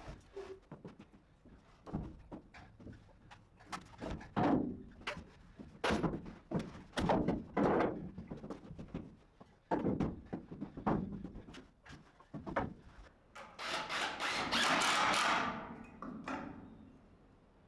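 Wooden boards being handled during shelf building: irregular knocks and thunks of lumber against lumber, with a longer scraping, rubbing stretch of about two seconds near the end.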